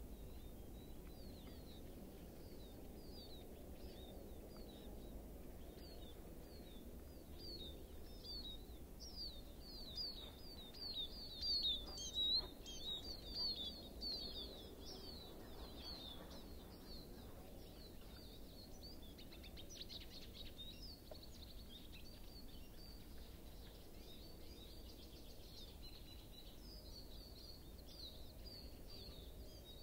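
Small songbirds chirping: many quick, high, down-slurred notes in overlapping runs, loudest for a few seconds near the middle, over a faint steady low outdoor background.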